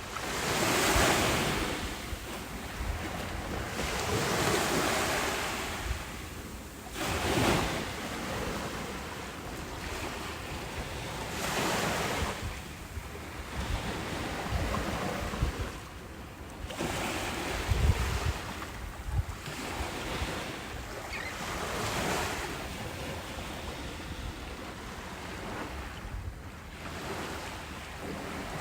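Ocean waves breaking on a beach, the surf swelling and washing back every few seconds, with wind buffeting the microphone in low rumbles.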